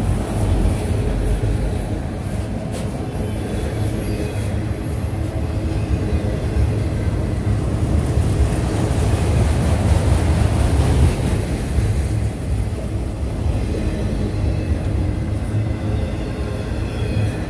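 A train rolling by with a steady low rumble of rail cars, growing a little louder about ten seconds in.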